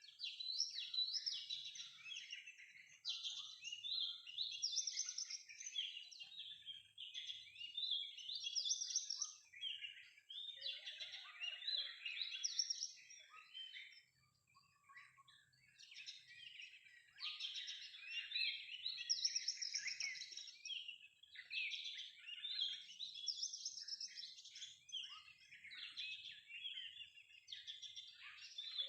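Oriental magpie-robin song: rapid, varied whistled and chattering phrases, almost unbroken apart from a short pause about halfway through.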